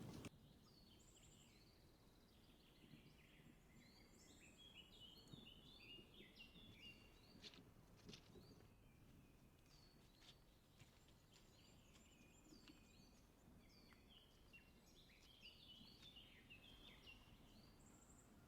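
Faint songbird chorus: many short, high chirps and quick trills from small birds, busiest in two spells, with a lull in the middle.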